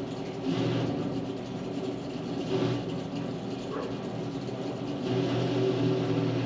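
Welding machine humming steadily, growing louder about half a second in, again around two and a half seconds, and from about five seconds, as the welder takes load.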